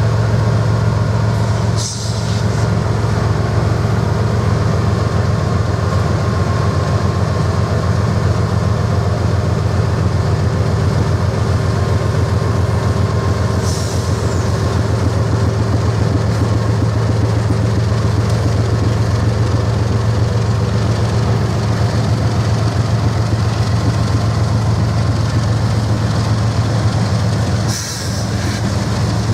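A train running by with a loud, steady rumble throughout. Three times, about twelve seconds apart, there is a brief high-pitched sound with a short dip in level.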